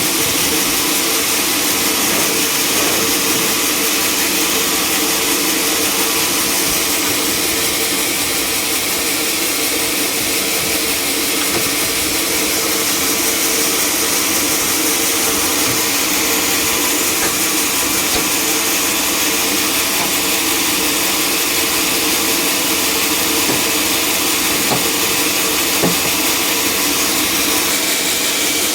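Sawmill machinery running steadily: an even, hissy machine noise with a constant hum that holds without a break.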